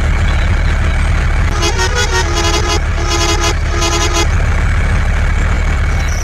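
A vehicle engine running steadily, with a horn giving four short toots between about one and a half and four seconds in.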